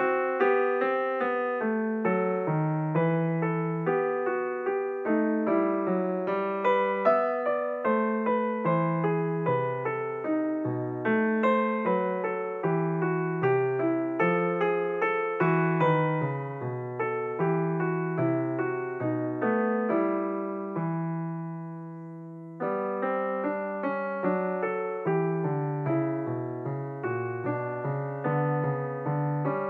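Background piano music, a run of single struck notes and chords. Past the middle the notes fade away for about two seconds, then the playing picks up again.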